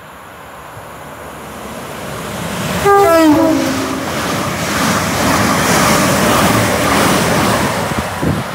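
GWR Intercity Express Train passing through the station at speed without stopping. Its rising rush peaks about three seconds in, when it sounds a short two-note horn, high then low, and the loud rush of the passing carriages continues until near the end.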